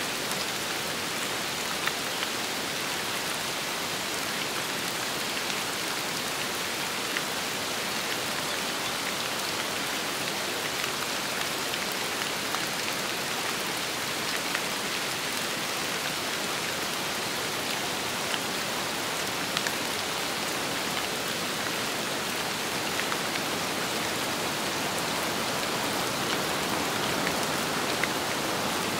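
Steady rain falling, an even hiss with a few louder individual drops ticking now and then.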